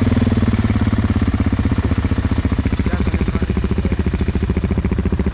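Off-road vehicle engine idling steadily, with an even, rapid pulsing beat.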